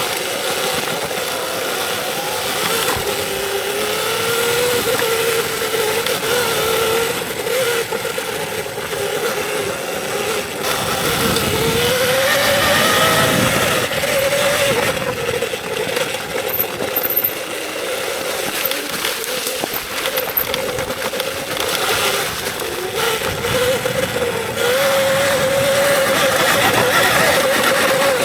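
Electric dirt bike's motor whining as it is ridden along a trail, its pitch rising and falling with speed, over a steady rush of wind and trail noise.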